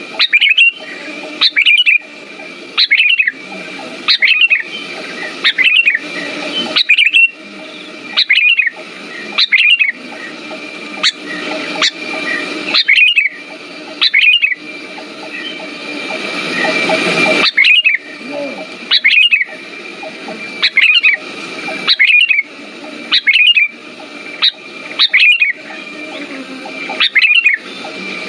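Sooty-headed bulbul calling over and over, short sharp notes one or two a second. The calls pause for a few seconds near the middle while a rushing noise swells.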